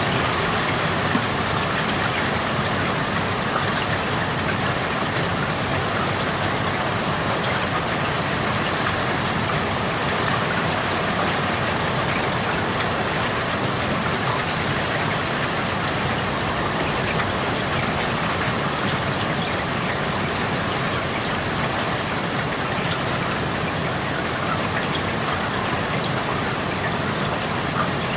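Steady rain falling outside an open window, a continuous even hiss with scattered drops pattering on surfaces.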